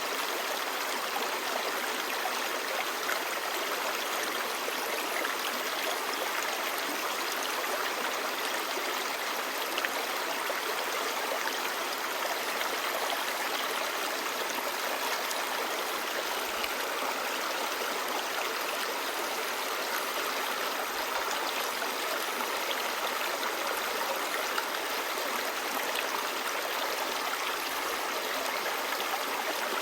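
Clear stream babbling steadily, an even rush of running water.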